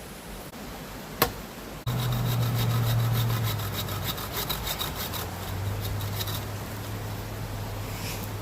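A saw cutting through firewood, starting abruptly about two seconds in with quick repeated strokes over a steady low hum.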